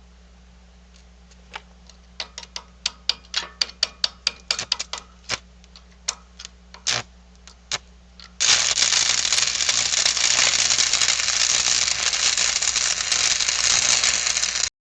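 A run of sharp clicks and pops, then an arc-welding arc crackling loudly and evenly for about six seconds before cutting off suddenly.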